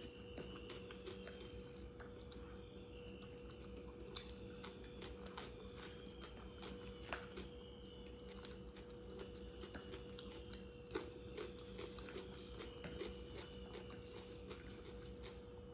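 Eating rice by hand: soft chewing and mouth clicks, with fingers mixing rice on a plastic plate, over a faint steady hum.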